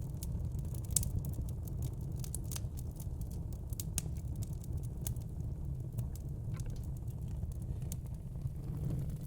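Wood fire in a fire pit crackling: scattered sharp pops and snaps, irregular and a few louder than the rest, over a low steady rumble.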